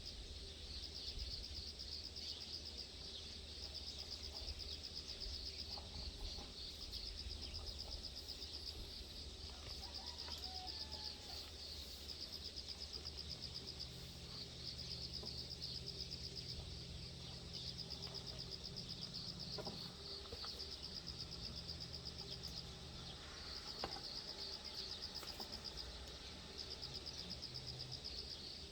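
Outdoor ambience with a continuous, rapidly pulsing high-pitched insect trill that breaks off briefly a couple of times, over a low steady rumble. A faint low hum comes in for several seconds in the middle.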